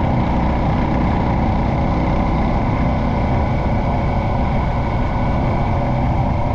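Motorcycle engine running steadily while riding, at an even, unbroken level.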